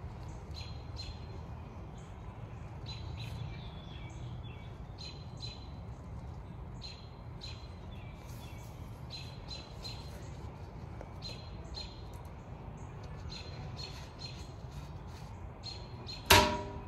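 Small birds chirping in short, high calls repeated over and over, over a low steady rumble. About sixteen seconds in, one sharp, loud clink rings briefly as the glass-topped metal table is knocked.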